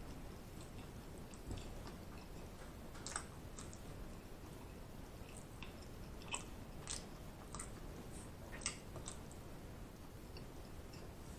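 A person chewing food with the mouth, a faint steady sound broken by irregular wet smacks and crackles.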